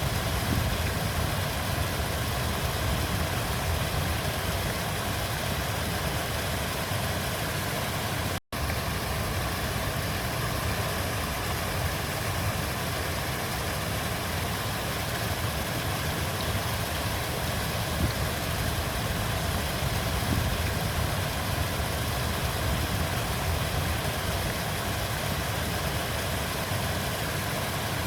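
Steady rushing of flowing river water, cutting out for an instant about eight seconds in.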